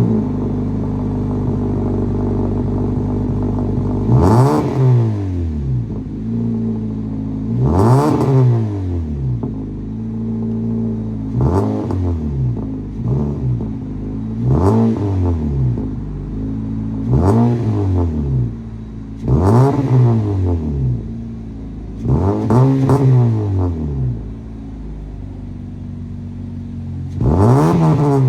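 Honda Civic 1.8 L four-cylinder with an aftermarket exhaust idling and free-revved in quick blips, about nine times, each rev rising and falling back to idle.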